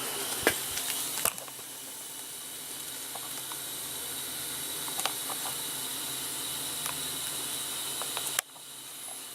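A few sharp clicks and knocks from a camera tripod being handled and adjusted, over a steady hiss that cuts off suddenly about eight seconds in.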